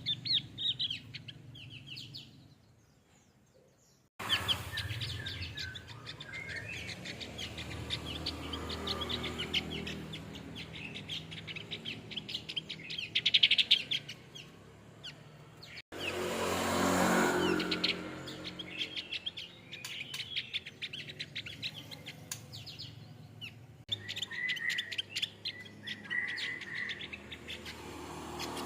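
Male Javan grey-throated white-eye singing a rapid run of high twittering chirps, with abrupt cuts about four and sixteen seconds in. A rushing noise swells briefly behind the song just after the second cut.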